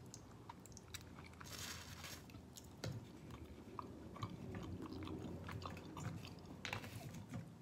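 A person chewing fried chicken close to the microphone, with small wet mouth clicks throughout and two short hissy bursts, about two seconds in and near the end.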